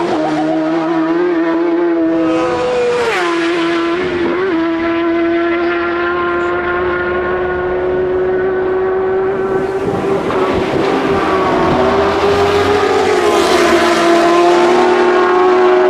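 Racing motorcycle engine held at high revs, one loud, steady, high-pitched note with short dips about three and four seconds in and a slight rise and fall near the end.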